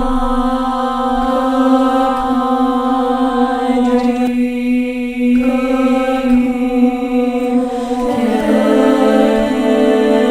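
A cappella voices singing long held notes over a steady drone, one upper voice briefly dropping out near the middle; about eight seconds in another voice joins with a new note.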